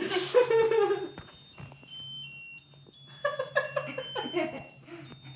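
Electronic musical chip playing a tinny tune of short, thin beeping notes from a birthday novelty that has no off button, with voices and laughter over it early on and again about three seconds in.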